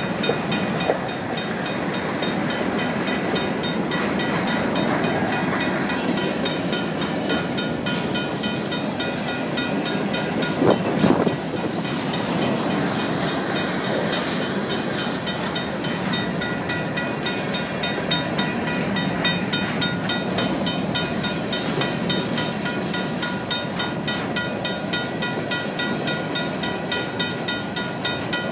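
Union Pacific grain train's covered hopper cars rolling past at close range, a steady rumble of wheels on rail with a louder knock about eleven seconds in. The crossing's mechanical bell rings over it.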